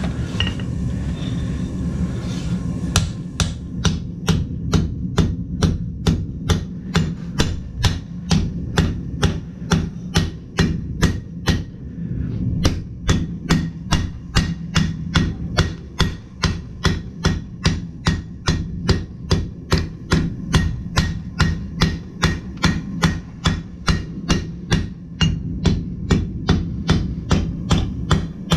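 Hand hammer striking a hot steel sword blank on an anvil. A steady, even run of blows, about two a second, starts a few seconds in and runs over a steady low hum.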